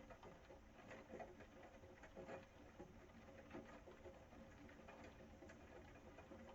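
Faint rain: an irregular patter of drops, over a faint steady hum.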